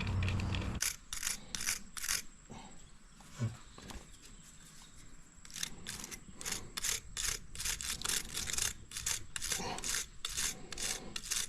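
A hand tool working a nut or bolt on battery hardware with a run of short rasping strokes, about two or three a second, that come faster and closer together in the second half.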